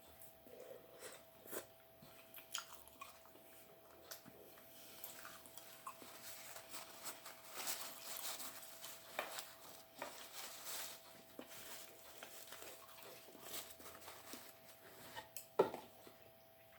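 A person chewing and crunching food at close range, faintly, with many small irregular clicks and crackles. A faint steady hum runs underneath.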